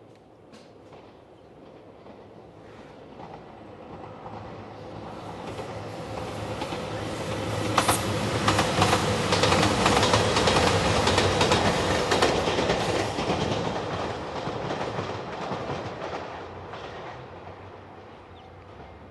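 A train passing close by. Its rumble builds over several seconds and peaks mid-way with the wheels clicking over the rail joints, then fades away.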